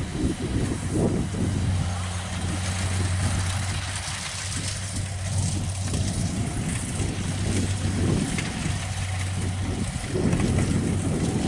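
Kubota DC70 rice combine harvester running steadily, a constant low engine hum under a broad mechanical noise.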